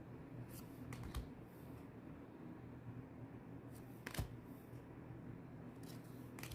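Faint handling of trading cards as they are slid and flicked one behind another through a booster pack, giving a few soft, scattered clicks over a low background hum.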